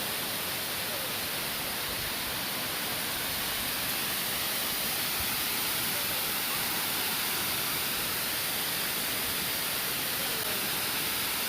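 Steady rushing of a waterfall: an even hiss of falling water.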